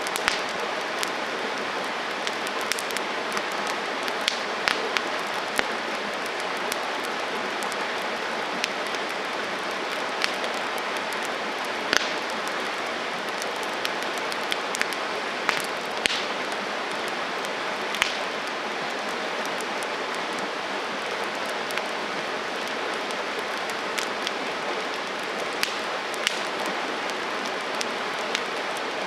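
Wood campfire burning: a steady hiss of flames with irregular sharp crackles and pops from the burning wood, a few louder pops scattered through.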